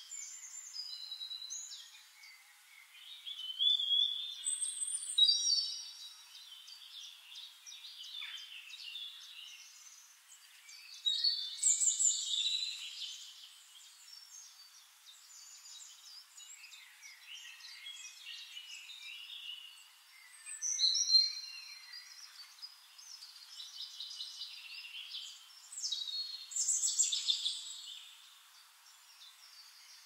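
Woodland songbirds singing: louder, varied high-pitched song phrases every five to ten seconds over softer, continuous chirping.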